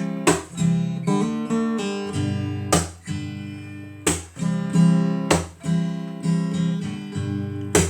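Acoustic guitar playing an instrumental passage: chords strummed sharply every second or two, each left to ring out.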